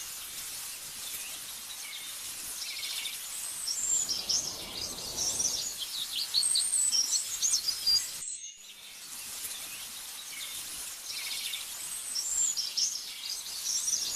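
Small birds chirping and twittering in quick, high calls over a soft background hiss. The sound cuts out for a moment about eight seconds in, then the chirping starts again.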